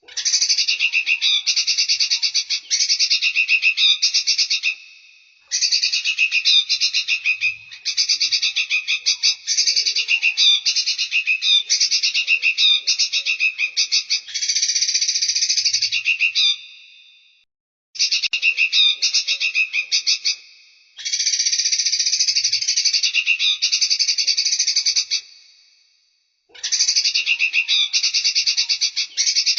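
Recorded songbird song: long phrases of fast, high repeated notes, each lasting a few seconds, with short pauses between them.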